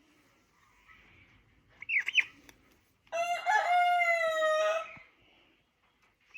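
A rooster crows once, a long, loud call of about two seconds starting some three seconds in. A brief bird chirp comes just before it.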